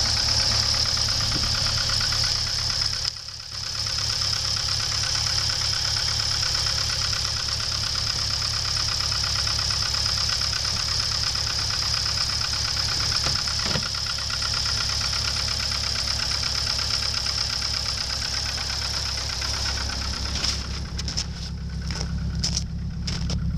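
A 2002 Dodge Neon's 2.0-litre four-cylinder engine idling steadily in the bay, with a steady high-pitched whine over the running. Near the end, footsteps crunch in snow as the engine sound drops back.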